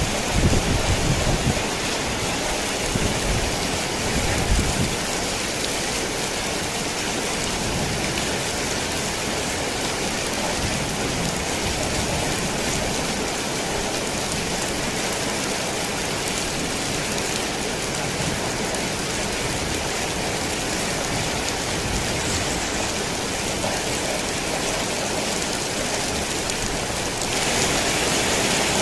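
Heavy rain falling steadily on a tin roof, a dense even hiss of drops. A low rumble of thunder in the first few seconds fades away, and the rain grows a little louder and brighter near the end.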